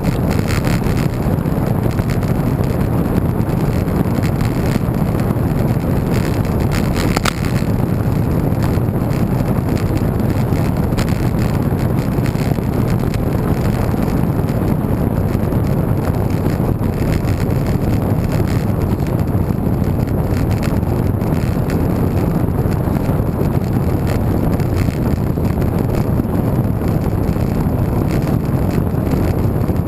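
Steady, loud wind rushing over the camera microphone from the air stream of a moving bicycle.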